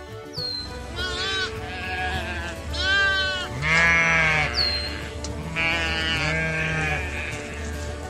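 Sheep bleating about four times, the loudest call near the middle, over soft background music.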